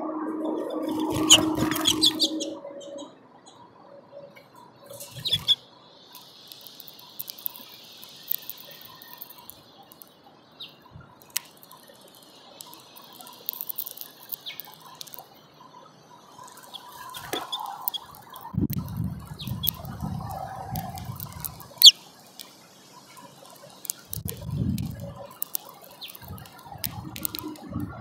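House finches feeding at a seed tray, heard close up: scattered sharp clicks and taps of beaks picking and cracking seed, with wing flutters and several low thumps in the second half as birds land and shift on the perch. A low hum runs through the first few seconds.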